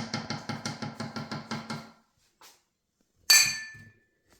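A fast, even run of taps, about six a second, that stops about two seconds in, likely a spoon knocking sour cream off against the Thermomix mixing bowl. About three seconds in comes a single loud metallic clink that rings briefly.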